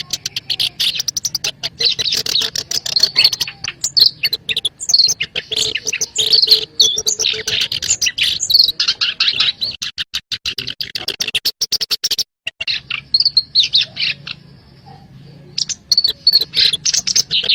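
Black-browed reed warbler song: a fast, loud run of harsh, scratchy chattering notes with quick warbled phrases. It breaks off briefly about 12 seconds in and goes quieter for a couple of seconds before starting up again.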